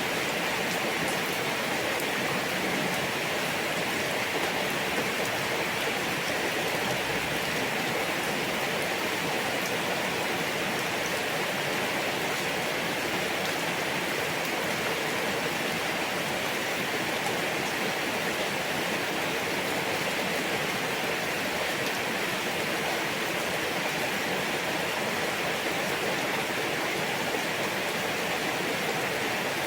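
Steady rain falling at night: an even, unbroken hiss with faint ticks of single drops.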